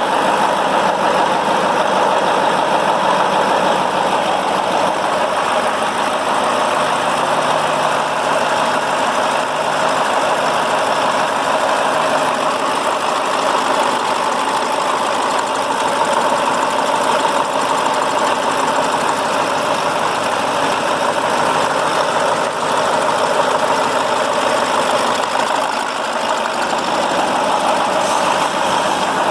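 KAMAZ 740.51-320 Euro-2 V8 turbodiesel engine idling steadily.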